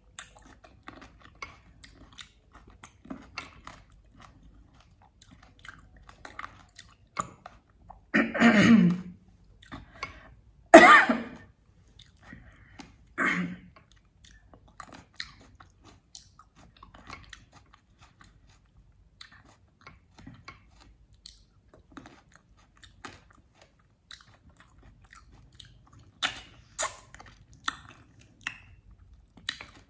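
Close-miked mouth sounds of eating sauced mutton chops: soft wet chewing, smacking and biting, with small clicks all through. Three much louder short bursts come a third of the way in, and a run of sharper clicks near the end.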